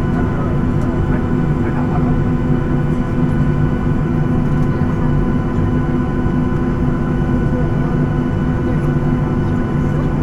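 Boeing 737-800's CFM56 jet engines running steadily at idle, heard inside the cabin as an even hum with several steady tones over a low rumble.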